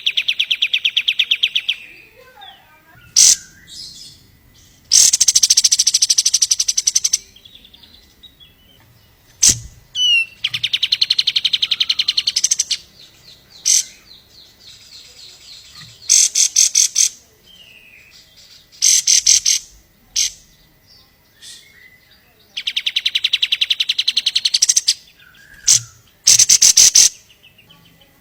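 Kapas tembak songbird singing: loud bursts of very rapid, high trilled notes, each one to two seconds long, repeated about ten times with short gaps. Brief single chirps fall between the bursts.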